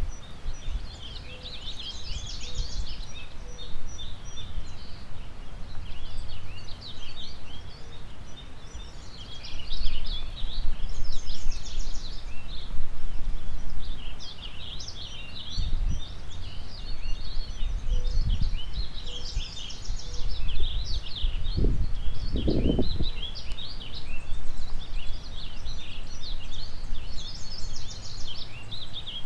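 Several songbirds singing and chirping at once, many overlapping trills and twitters, over a gusty low rumble of wind on the microphone that surges about 22 seconds in.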